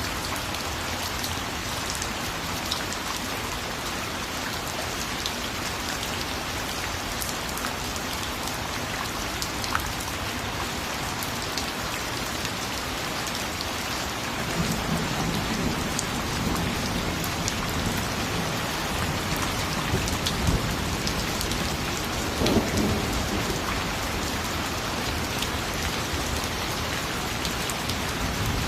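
Steady rain falling, with individual drops ticking on a surface. About halfway through, a low thunder rumble rolls in and swells twice before easing off.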